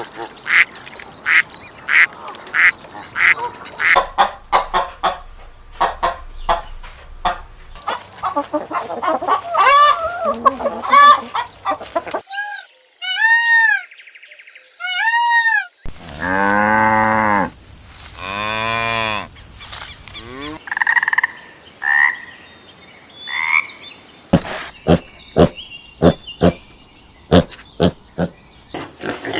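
A run of different animal calls spliced one after another, changing abruptly every few seconds: rapid repeated short calls, arched rising-and-falling calls, and longer drawn-out calls.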